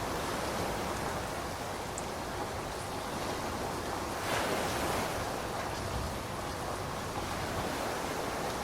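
Steady rainfall, an even hiss that swells briefly about halfway through.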